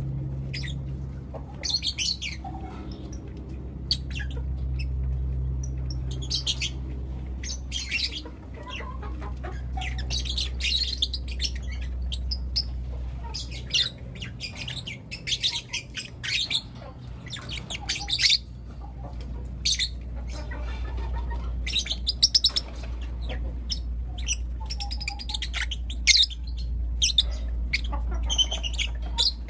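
Pet lovebirds chirping and calling: many short, sharp high chirps at irregular intervals, over a steady low hum.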